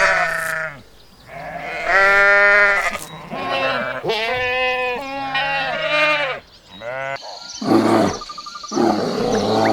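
Bleating livestock: several long, wavering bleats one after another. About seven seconds in, the sound changes to deep, rough calls over a steady high whine.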